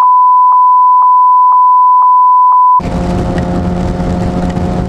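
Steady high-pitched censor bleep, with faint ticks about twice a second, laid over the rider's swearing. It cuts off suddenly about three seconds in, giving way to the Kawasaki Ninja ZX-6R's engine hum and wind noise on the move.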